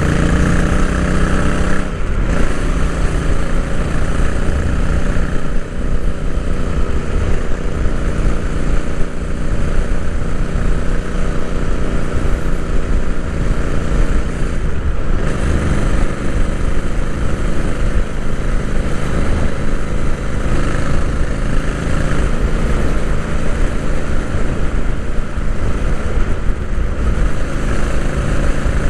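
Royal Enfield Interceptor 650's 648 cc parallel-twin engine, heard onboard while riding, with wind noise on the microphone. Revs climb and then drop at a gear change about two seconds in, dip and build again about fifteen seconds in, and otherwise hold a steady cruise.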